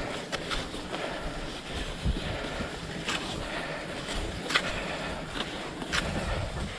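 Cross-country skis sliding over snow with a steady hiss, broken by short sharp clicks or scrapes every second or so, with wind rumbling on the microphone.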